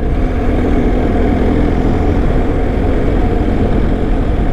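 BMW R1250 motorcycle's boxer-twin engine running at a steady cruise, heard under a heavy, steady rush of wind on the microphone.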